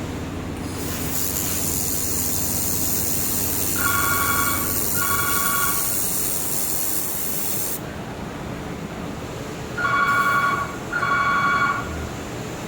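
Handheld laser welder making a weld pass with wire feed: a steady high hiss starts about a second in and cuts off suddenly after about seven seconds. Two pairs of steady two-note electronic beeps sound, one pair during the hiss and one pair after it stops.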